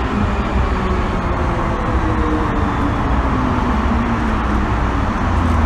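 MTR M-Train subway car running, heard from inside the car: a steady rumble with faint motor tones that slide slowly down in pitch.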